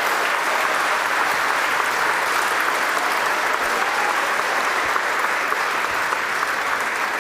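Crowd applauding and cheering: a dense, steady wash of clapping.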